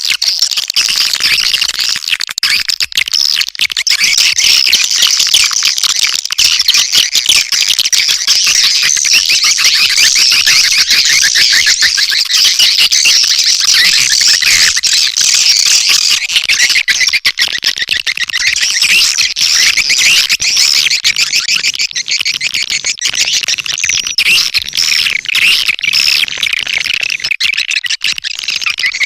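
Swiftlet lure call (suara panggil walet): a loud, unbroken stream of rapid, high chirps and twitters from swiftlets, played to attract the birds into a nesting house.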